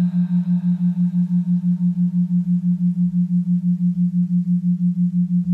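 A steady low drone tone, pulsing evenly about seven times a second like two close tones beating. Faint higher ringing overtones fade out in the first couple of seconds.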